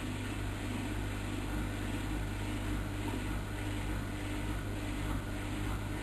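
Bauknecht WAK7760 washing machine running steadily through its Bunt 40 coloureds cycle: an even motor hum with a faint steady whine above it.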